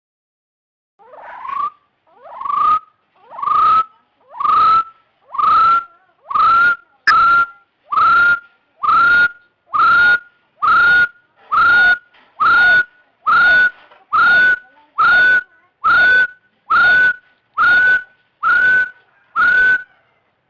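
Hill partridge calling: a long series of short rising whistles, about one a second, getting louder over the first few notes and then holding steady.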